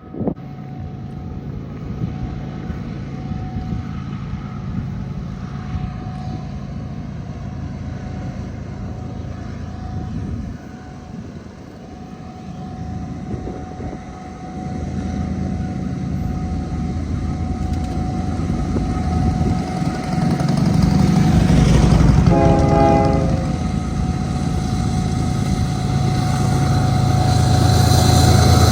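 Diesel freight train running by, its locomotive engines making a low steady rumble that grows louder toward the end. A brief locomotive horn blast sounds a little over twenty seconds in.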